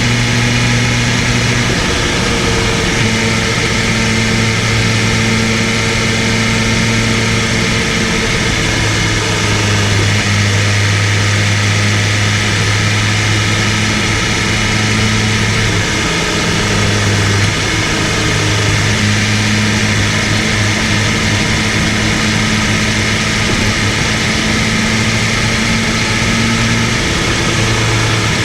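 BMW M 1000 RR superbike's inline-four engine running at fairly steady revs while riding, its pitch shifting slightly up and down a few times, over a steady rush of wind and road noise.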